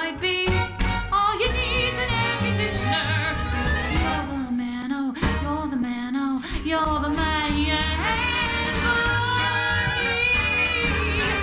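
A band playing live, with a melody line of held, wavering notes in wide vibrato over bass and drums, and no words sung.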